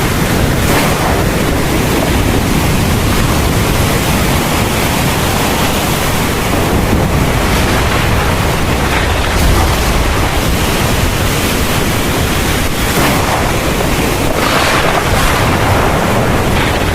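Heavy rain pouring steadily in a thunderstorm, with a continuous deep rumble underneath.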